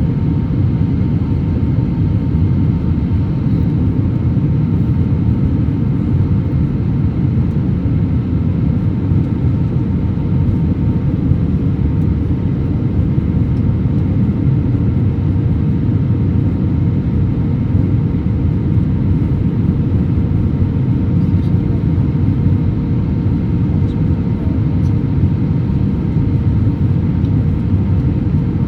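Steady cabin noise of an Airbus A321-200 airliner in flight: an even, low rushing drone of airflow and engines, with a faint steady hum of a few tones over it.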